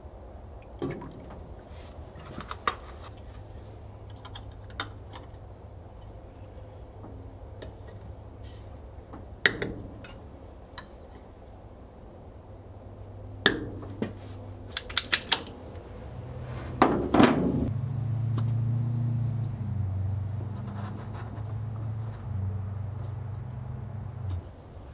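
Workshop sounds during brake bleeding: scattered metal clinks and knocks, with a low steady hum that grows much louder about two-thirds of the way through and cuts off suddenly near the end.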